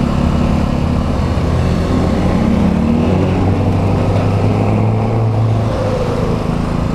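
Vehicle engine running steadily while riding through city traffic, its hum shifting slightly in pitch, with steady road and wind noise.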